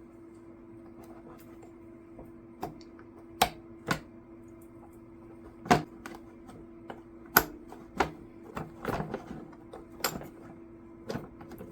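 Sharp, irregular metallic clicks and taps of a 3/8 open-end wrench working loose a carburetor mounting nut on a small engine, about a dozen over several seconds, over a steady low hum.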